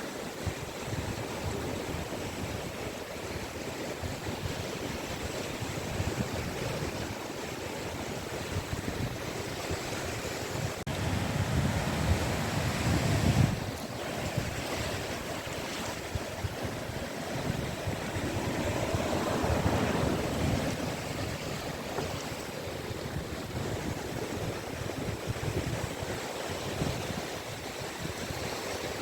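Sea waves breaking and washing up a beach: a continuous wash of surf with two louder breakers, one about twelve seconds in and another about twenty seconds in.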